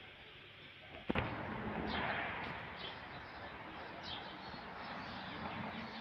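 A single sharp knock about a second in, then a steady background hiss with a handful of short bird chirps.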